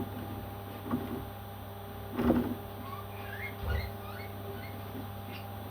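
A parrot making a short louder call, then a quick scatter of soft high chirps, over a steady electrical hum.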